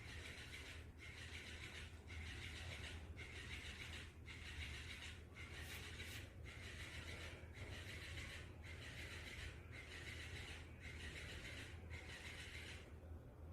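Electric dancing fish toy running in a regular rhythm: its motor buzzes in spells about a second long, each with a short break between, and stops near the end. A steady low hum lies underneath.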